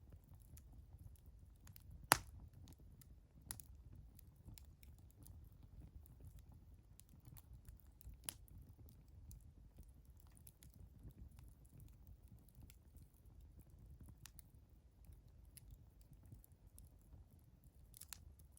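Wood fire crackling: sparse sharp pops and snaps, the loudest about two seconds in, over a faint low steady rumble.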